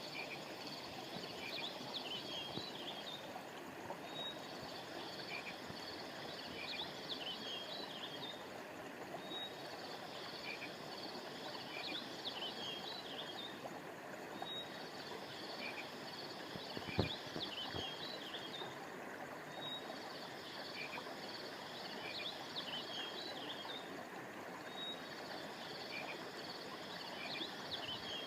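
River water flowing steadily, with a cluster of high chirping calls that comes back regularly about every five seconds. About two-thirds of the way through there is a single brief knock.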